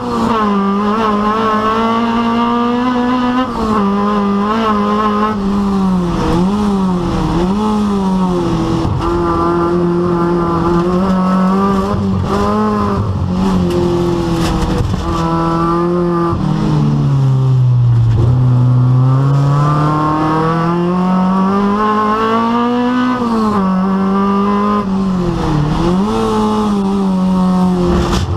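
Rally car engines racing on a rallycross circuit, revving hard and rising and falling in pitch through gear changes and corners. The pitch drops low for a couple of seconds about two-thirds of the way through before climbing again.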